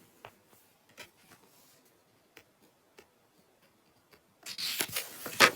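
Faint scattered clicks and taps, then about four seconds in a louder burst of rustling and crackling with sharp clicks: objects being handled close to the microphone.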